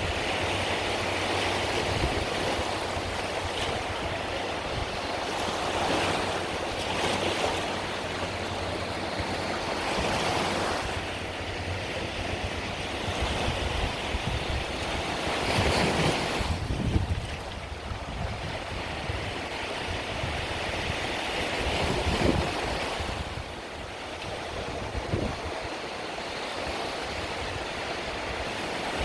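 Mediterranean waves breaking and washing on the shore, the surf swelling every few seconds, with wind buffeting the microphone.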